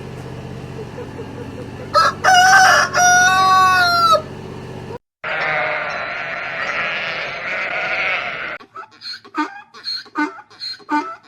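A rooster crowing once, a loud two-part call, about two seconds in. A few seconds of a noisier, wavering sound follows. Near the end, music of repeated plucked notes begins.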